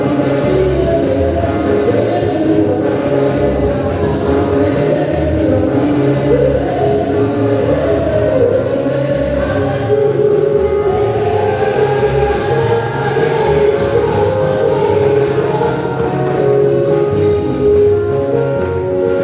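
A choir singing a gospel song over an instrumental backing with a recurring low bass line.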